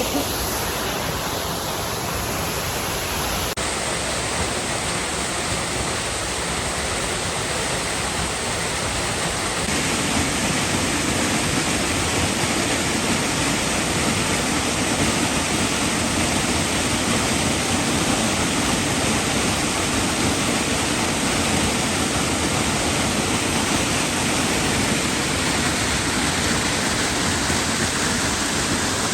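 Waterfall: a steady rush of falling water, growing a little louder and fuller about ten seconds in.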